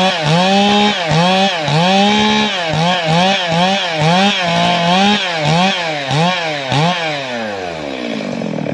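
Two-stroke chainsaw running at high revs. Its pitch dips and recovers about twice a second as the chain bites into the wood. Near the end the revs wind steadily down as the throttle is let off.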